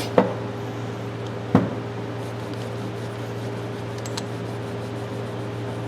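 Two light knocks over a steady low hum: a small click just after the start and a sharper knock about a second and a half in, from a wrench being handled on the workbench.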